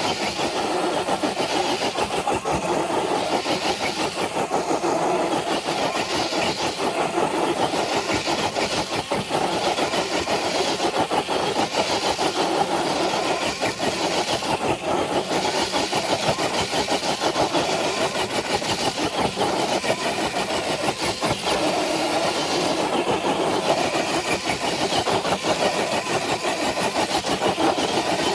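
Electric motor and gearbox of a Traxxas TRX4 RC crawler truck whining steadily under load as it drags a brick-weighted dead sled, with a rapid fine rattle running through it.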